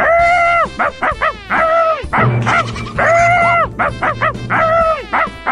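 A dog barking repeatedly at an intruder, a guard-dog warning: a run of about eight loud barks, some drawn out to about half a second with short ones between.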